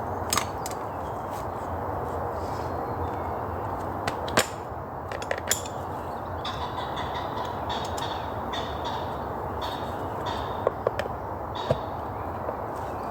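Steady wind rushing through woodland, with several sharp clicks and knocks scattered through it.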